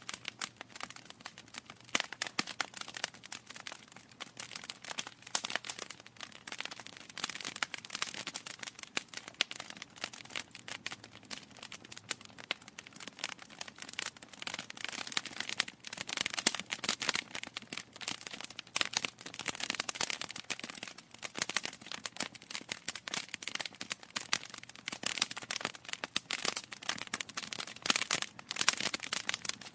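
Wood fire crackling in a fireplace: a dense run of irregular sharp pops and snaps from burning logs.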